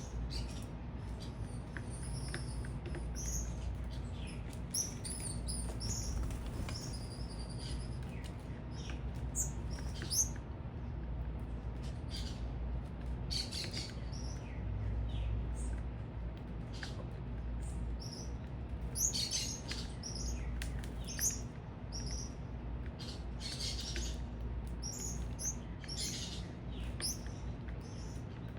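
Small birds at a feeder chirping, with many short, high chirps coming in irregular bursts, busiest in the second half. Under them runs a steady low rumble.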